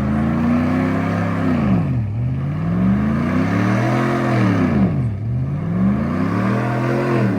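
Truck engine revved up and let back down three times, its pitch climbing and falling in long sweeps of a second or two each.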